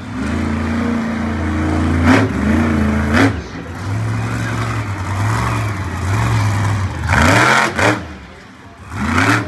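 Monster truck engine running hard and revved in several sharp blips, about two and three seconds in, again around seven to eight seconds, and once more near the end, with a steadier run in between.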